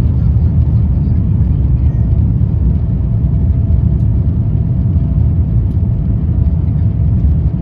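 Steady low rumble heard inside the cabin of an Airbus A350-900 rolling on the ground after touchdown, from its engines and wheels, with a faint steady hum above it.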